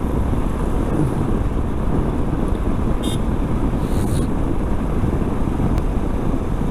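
Royal Enfield Himalayan motorcycle under way on the road: the engine runs steadily under a rush of riding wind on the microphone. A short high-pitched sound cuts through about three seconds in, and a brief hiss follows about a second later.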